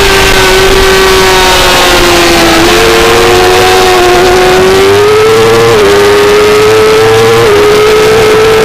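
Suzuki GSX-R600 inline-four race engine at high revs, heard on board the motorcycle. The pitch stays nearly steady with small dips and rises, over a steady rushing hiss.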